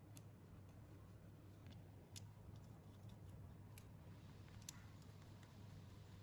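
Near silence: a low steady hum with a few faint, sharp clicks scattered through it.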